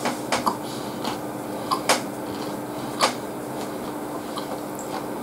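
A person chewing a mouthful of tonkatsu and rice: a handful of short, sharp mouth clicks, two close together just before two seconds and one at about three seconds, over a steady background hum.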